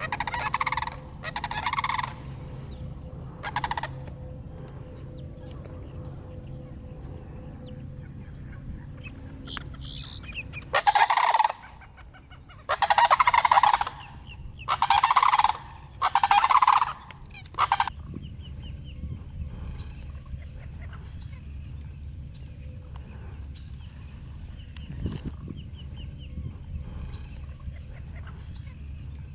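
Sandhill cranes calling in loud rolling bursts: a few calls near the start, then a run of them from about eleven to eighteen seconds in. A steady high-pitched buzz, like insects, runs underneath.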